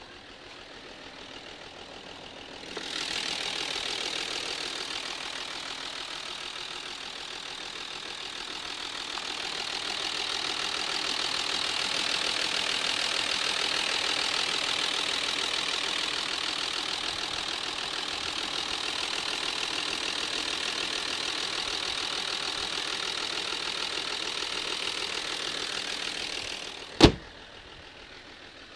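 Audi A8 3.0 TDI V6 diesel engine running, loud and close from about three seconds in and steady, a problem the owner suspects comes from the injectors or a timing chain that has jumped. A single sharp knock near the end, after which the sound falls back to faint.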